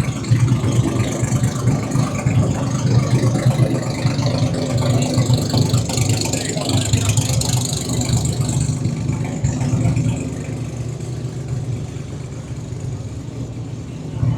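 Toyota Supra drag car's engine running at idle, a steady low pulsing engine note, with the higher noise around it easing off about nine seconds in.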